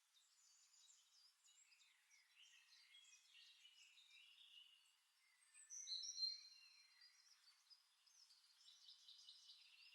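Faint birdsong: small birds chirping and twittering high up, with a brief, slightly louder run of whistled notes about six seconds in.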